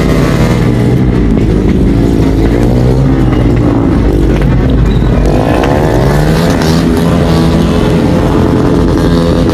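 Car engines and exhausts running at low revs as cars creep forward in a line, with one engine's revs rising about five seconds in and holding higher.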